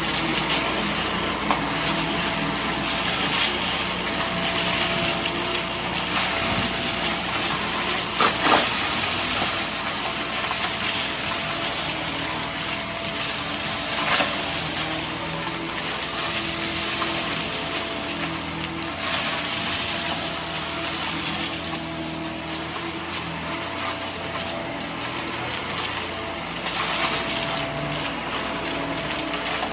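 Vacuum cleaner running steadily while sucking up debris, with a couple of brief louder spikes, one about a third of the way in and another about halfway.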